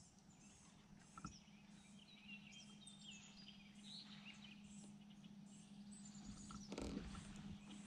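Faint outdoor birdsong: many short high chirps and whistled calls, over a steady low hum. A couple of soft knocks come about a second in and near the end.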